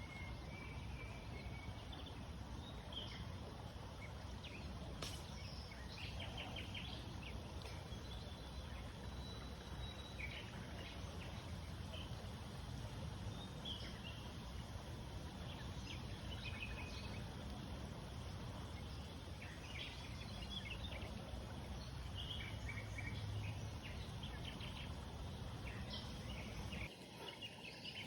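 Outdoor ambience: small birds chirping in short scattered calls over a steady low rumble, which drops out briefly near the end.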